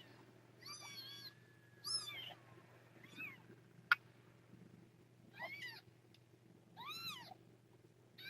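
Newborn kittens mewing: about five short, high-pitched cries, each rising and falling in pitch. A single sharp click comes near the middle.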